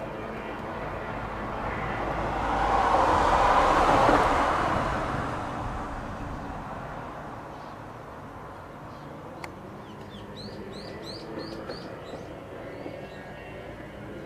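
A vehicle passes by, swelling to its loudest about three to four seconds in and then fading away. Later a small bird gives a quick run of about half a dozen rising chirps.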